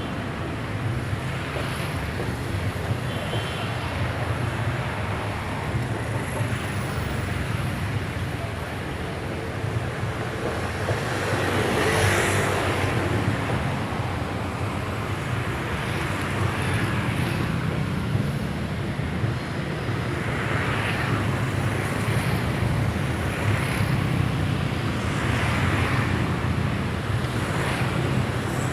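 Steady vehicle rumble with a wash of noise over it, swelling several times, loudest about twelve seconds in.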